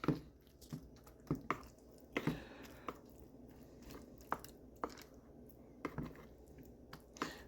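A person chewing a mouthful of butter chicken and rice, with a few scattered soft clicks.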